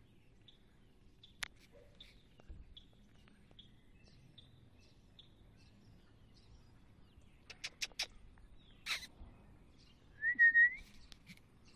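Faint small-bird chirps repeating about once a second, a few sharp clicks, and near the end one loud short whistled note that rises, holds and rises again.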